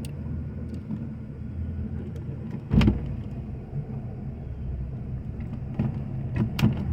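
An engine idling steadily, with one loud knock about three seconds in and a few sharp clicks near the end.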